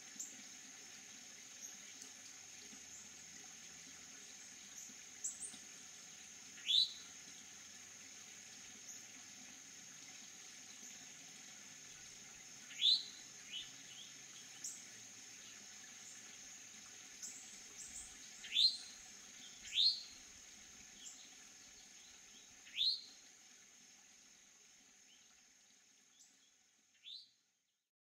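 A bird calling with short, sharply rising notes, about seven of them spaced a few seconds apart, over a steady high insect drone that fades away near the end.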